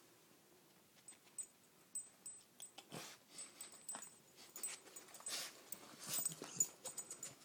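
A dog sniffing hard at close range: a quick run of short, noisy sniffs that starts about a second in and keeps going.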